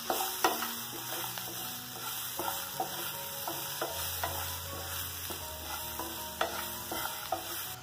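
Sliced bajji chillies frying in coconut oil in a nonstick pan, sizzling steadily, while a wooden spatula stirs them with irregular clicks and scrapes against the pan.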